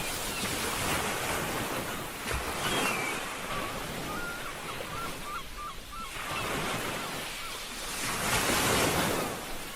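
Ocean waves washing onto a beach, a steady rush that ebbs and swells, with a larger surge near the end. Midway, a faint run of short, high chirping calls sounds over the surf.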